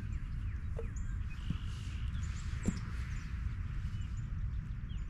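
Outdoor farm ambience: scattered short bird calls over a steady low rumble.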